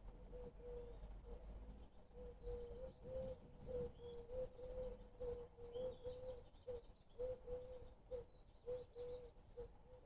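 Garden birds calling faintly: thin, high chirps come and go over a low, level note repeated two or three times a second.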